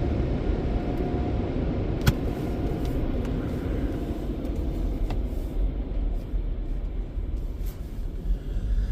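Steady low rumble of a car heard from inside its cabin, with a sharp click about two seconds in and a fainter click about five seconds in.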